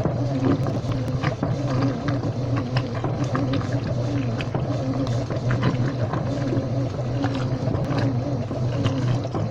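Washing machine running: a steady motor hum with a wavering tone, dotted with frequent small clicks and rattles.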